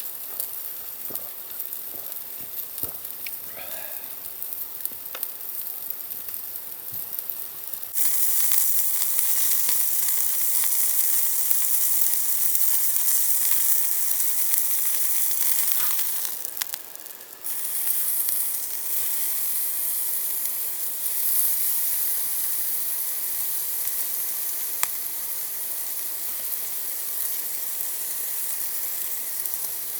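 Food sizzling as it fries, a steady hiss that is quieter with a few small clicks at first, then abruptly much louder about eight seconds in, dipping briefly around the middle before carrying on.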